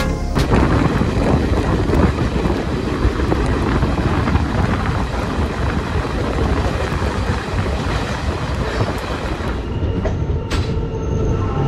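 Passenger train running, heard from the open door of the moving coach: a steady rumble of wheels on the track mixed with wind buffeting the microphone. One sharp clank comes about ten seconds in as the train runs into a station.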